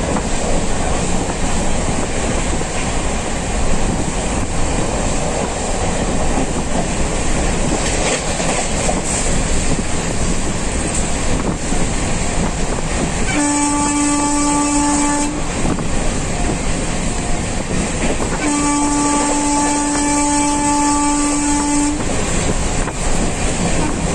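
Express passenger train running at about 115 km/h, its steady wheel-on-rail noise heard from inside the coach. A little past halfway the locomotive horn sounds one steady blast of about two seconds, then a longer blast of about three and a half seconds a few seconds later.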